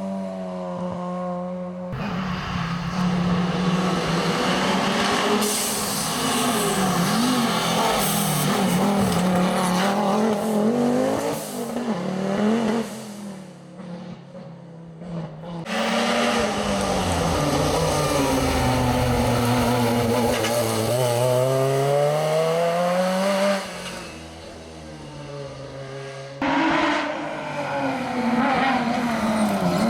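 Historic rally cars driven hard along a special stage, engines rising in pitch and dropping back through gear changes as several cars pass in turn. The sound falls away briefly twice between cars.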